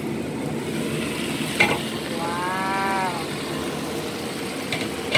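Chicken and cabbage frying in an open pan, a steady sizzle, with a sharp clink about a second and a half in as the glass lid comes off. About two seconds in comes a short tonal call that rises and falls in pitch, lasting about a second, and two light utensil clicks follow near the end.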